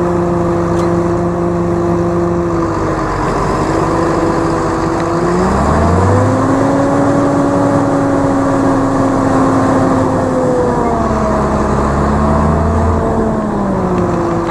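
Tractor engine running, then revved up about five seconds in, held at higher revs for several seconds, and eased back down near the end, as the tractor is stuck on ice and trying to pull free.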